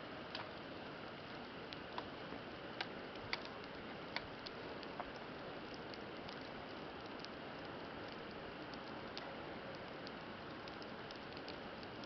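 Wood campfire burning: a steady low hiss with irregular sharp crackles and pops from the burning wood, the strongest pops falling in the first five seconds.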